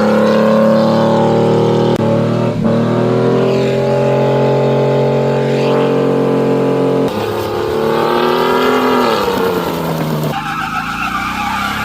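Truck engines held at high revs in a few short cuts, the pitch dropping and then climbing again near the end.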